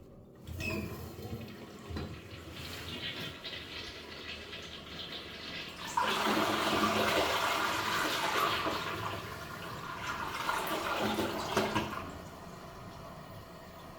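Keramik C-557F toilet flushing. Water starts running about half a second in, jumps suddenly to a loud rush about six seconds in, and falls back to a quieter running after about twelve seconds.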